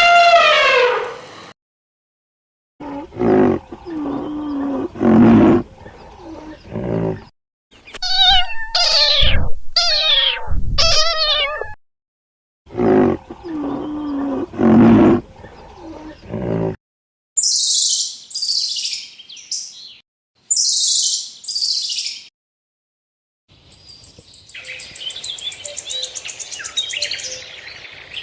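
A run of separate animal calls, one short clip after another with brief silences between, ending in a chorus of birds chirping.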